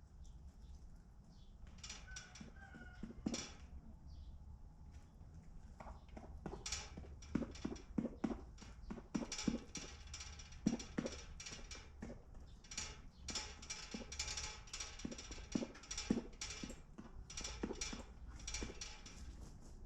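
Chickens moving about in a coop: many irregular taps and knocks, thickest in the second half, with a couple of brief high peeps about two to three seconds in.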